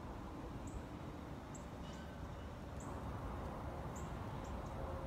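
Outdoor ambience: a steady low rumble under a small bird's short, high chirps, about one a second.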